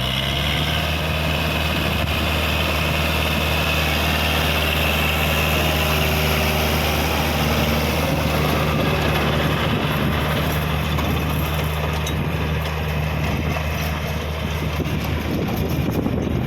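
Tractor engine running steadily with a low, even hum; near the end the steady note breaks up into a rougher, noisier sound.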